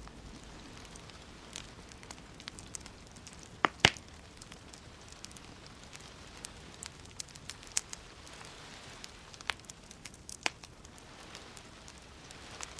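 Wood fire crackling in a fireplace: a soft steady hiss with scattered snaps, and two loud pops close together about four seconds in.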